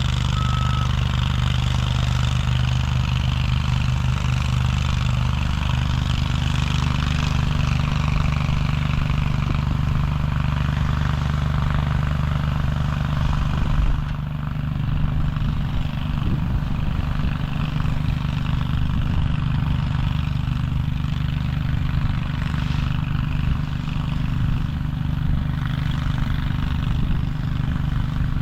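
A heavy vehicle engine running steadily with a deep, even hum. In the first second a reversing beeper sounds a few times. About halfway through, the engine sound becomes rougher and the hiss above it fades.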